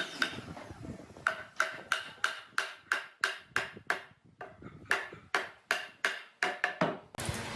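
A rapid series of sharp taps, about three a second, each with a brief ring, coming a little faster near the end.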